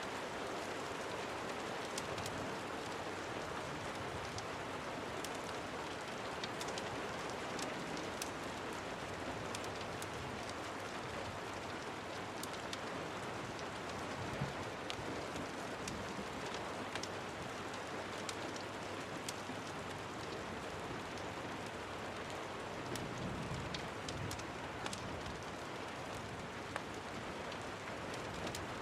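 Steady rain falling, an even hiss with scattered sharp clicks and pops throughout.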